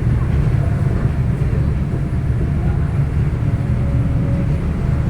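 Steady low rumble of a ferry under way, its engines running without change.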